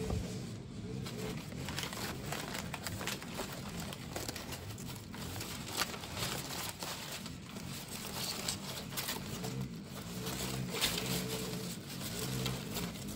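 Masking tape and paper being handled and pressed on by hand: a run of small crinkles and crackles. A low wavering machine hum joins in the last few seconds.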